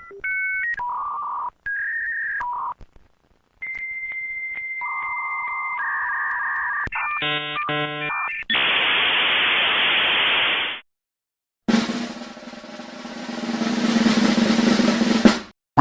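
A run of separate short sound effects: simple electronic beep tones stepping between a few pitches, a brief buzzy chord, a burst of steady hiss that cuts off, then a noisy rumble that swells and stops suddenly near the end.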